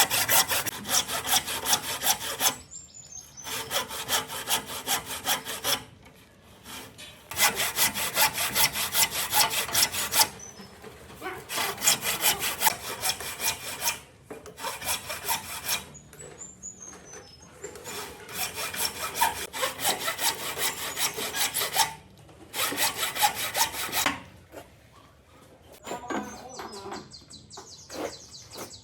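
Wood being worked by hand with rapid back-and-forth strokes, like hand sawing or rasping, in bursts of a few seconds with short pauses between. A small bird chirps faintly a few times.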